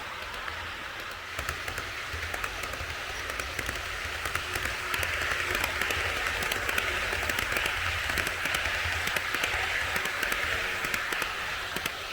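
HO-scale model electric train of a TOMIX 159 series set running on the track: a steady rolling rattle of wheels on rail with fine clicks over the rail joints and a low motor hum beneath. It grows louder in the first few seconds as the train comes closer.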